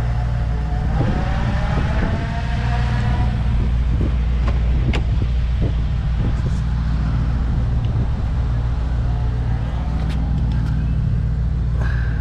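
Mercedes-AMG E63 S's twin-turbo V8 idling steadily, with a few sharp clicks.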